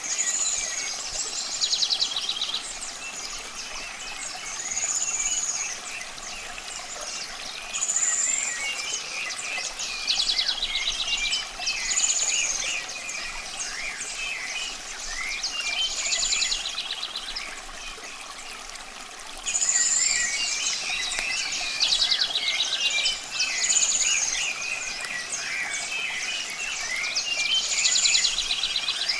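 A chorus of birds singing and chirping, with one bird's song repeating every couple of seconds: a high note falling into a fast trill. Under it runs a steady hiss of running water.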